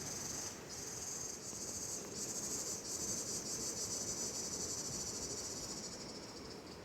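Insects trilling in a high, rapid, pulsing chorus, with a few short breaks in the first two seconds, then unbroken until it stops near the end.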